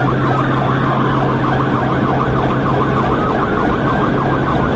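Police cruiser siren in a fast yelp, its pitch swinging up and down several times a second, over a steady low hum.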